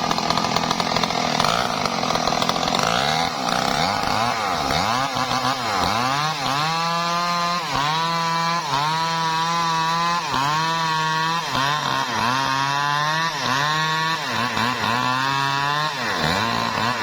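Chainsaw running at high revs while cutting wood. From about six seconds in, its pitch dips and rises again about once a second until near the end.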